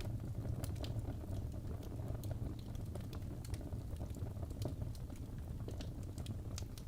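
Log fire burning in a fireplace: a steady low rumble of the flames with frequent small, irregular crackles and pops from the wood.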